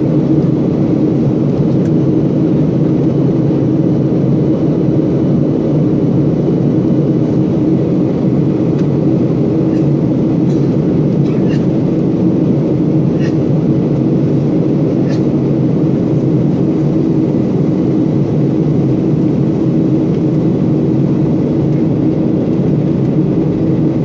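Steady drone of an airliner cabin in flight: the engines and airflow make a constant low hum, with a few faint small clicks about halfway through.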